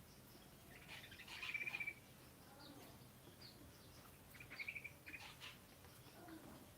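A bird chirping in two short bursts of rapid, stuttering high notes, one about a second in and another about four and a half seconds in.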